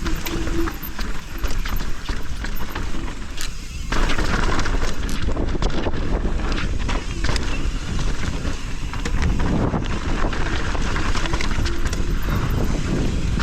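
Mountain bike riding fast down a rough dirt trail: tyres crunching over dirt and rocks, with frequent knocks and rattles from the bike and a steady low rumble, getting louder about four seconds in.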